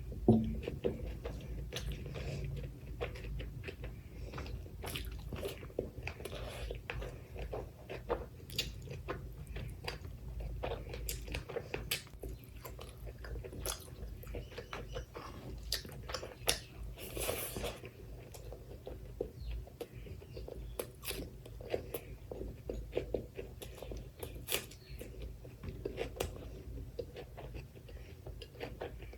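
Close-miked chewing and biting of spicy mutton curry with rice and onion: wet mouth clicks and smacks with occasional crunches, repeating irregularly. A single sharp knock comes just after the start.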